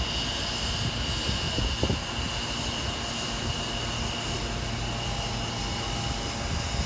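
Steady low rumble with a thin, steady high whine, like engine or vehicle noise; a second, fainter whine joins about five seconds in.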